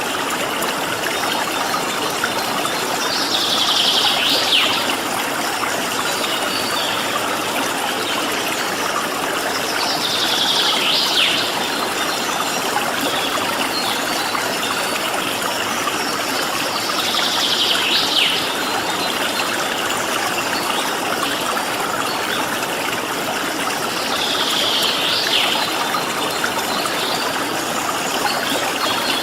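Steady flowing water, a stream running and splashing. Four times, about seven seconds apart, a brief higher sound swells and ends in a quick falling sweep.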